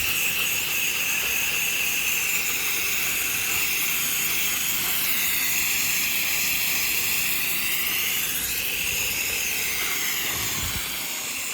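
Steady hiss of a soft-wash sprayer spraying a chlorine cleaning solution, with a constant high whine beneath it.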